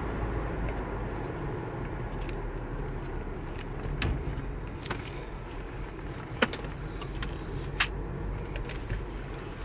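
Mazda CX-5's 2.0-litre petrol four-cylinder engine running with a steady low rumble, with a handful of sharp clicks or rattles between about four and eight seconds in.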